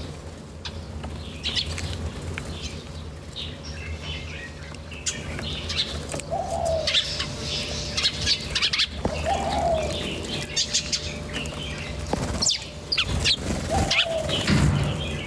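Small birds chirping with many quick, high chirps, and a lower falling call heard three times, over a steady low hum.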